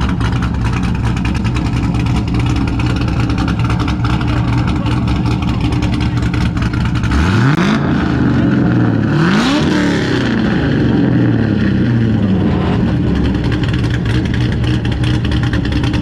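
A car engine idling with a steady note, revved twice, about seven and nine seconds in, each rev climbing in pitch and then falling back to idle.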